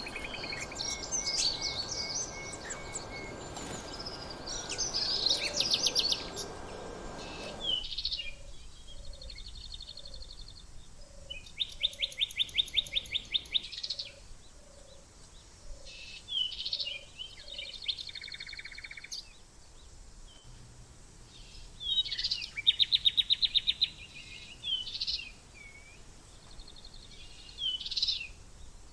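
Several songbirds singing and calling: quick chirps and fast, evenly pulsed trills, the loudest about twelve seconds in and again about twenty-two seconds in. A steady background noise runs under them for about the first eight seconds and then cuts off abruptly, after which a short low note repeats about every half second for several seconds.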